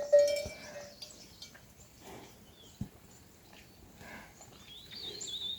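A short, loud animal call at the very start, then quiet with scattered small ticks and a warbling bird call near the end.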